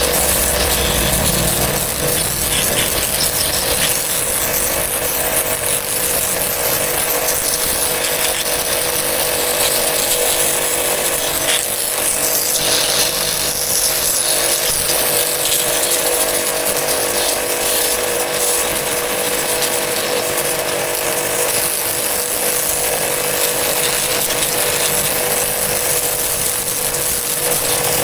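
A power tool running continuously, a steady hum under a hissing noise.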